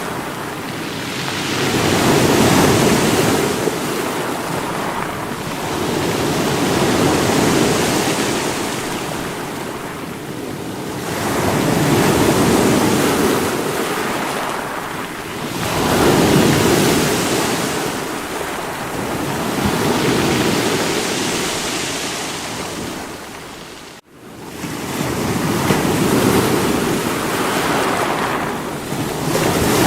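Sea waves breaking against rocks, surging in and falling back every four to five seconds. About two-thirds of the way through, the sound cuts out for an instant.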